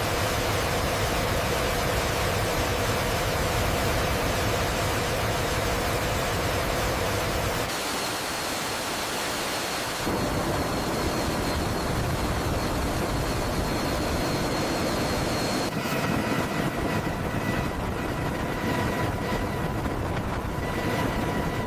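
AH-64 Apache helicopter's turboshaft engines running at a steady idle after light-off: a steady rushing roar with a thin turbine whine. The sound shifts abruptly a few times, at about 8, 10 and 16 seconds.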